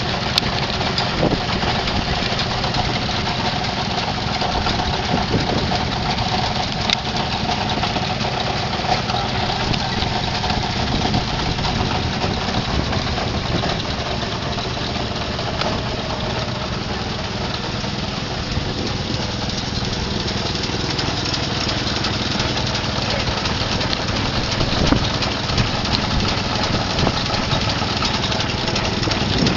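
Hit-and-miss stationary engine running steadily.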